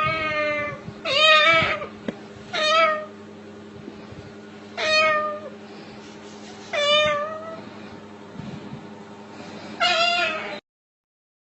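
Six drawn-out, cat-like meows, irregularly spaced one to two seconds apart. The sound cuts off suddenly near the end.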